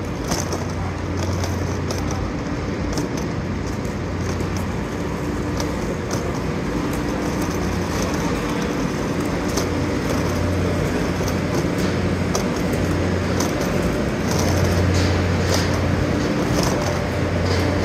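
Steady low hum and rumble of passenger trains standing at a covered station platform, swelling and easing a little, with light clicks of footsteps and rolling suitcase wheels.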